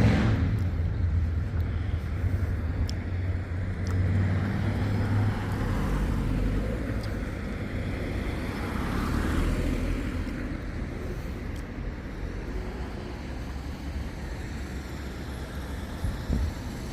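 Road traffic: a vehicle's low engine rumble fading away, then a quieter steady background hum with another vehicle passing about nine seconds in.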